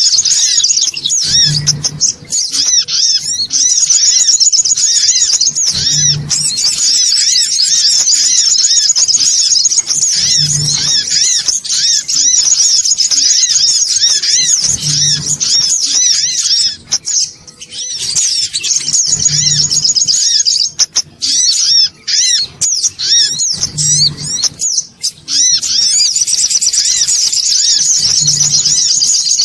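Songon otong sunbird lure recording: loud, rapid, busy chattering calls that run almost without pause, dropping out briefly twice past the middle. A low thud recurs about every four and a half seconds beneath the calls.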